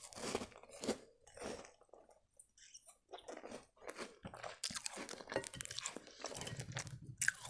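Close-up chewing of crisp round sandwich biscuits: irregular crunches as the biscuit is ground between the teeth, with a sharper, louder crunch near the end.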